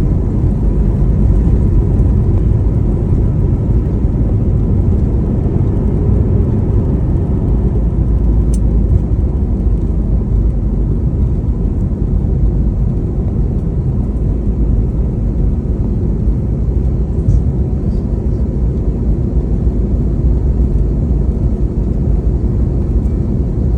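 Steady low rumble inside the passenger cabin of an Airbus A321neo, with engine and airflow noise at an even level and no distinct events.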